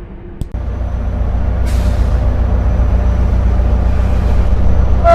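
Intercity train heard from the driver's cab: a click about half a second in, then a steady low rumble that grows louder, with a short hiss of air about 1.7 seconds in. The train's horn begins to sound just at the end.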